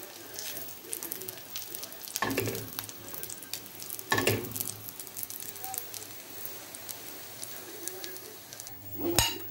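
Breaded homemade nuggets frying in hot oil in a pan: a steady sizzle with fine crackling, louder for a moment about two and four seconds in as the pieces are moved with a fork. A sharp click near the end.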